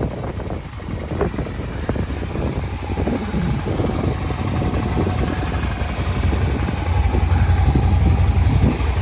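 Suzuki SV650S's V-twin engine idling after starting first time, with a steady low rumble that gets louder about seven seconds in.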